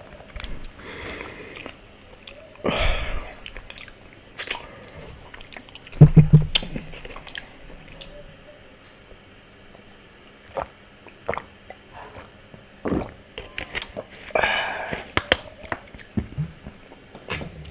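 Close-miked chewing and mouth sounds of a man eating, with many short wet clicks. About six seconds in comes a loud thump, followed by a quieter stretch while he drinks from a plastic water bottle.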